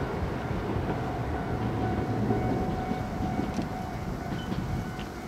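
Gakunan Railway electric train running away along the track: a steady rumble of wheels on rail with a thin constant high tone over it, easing off slightly near the end.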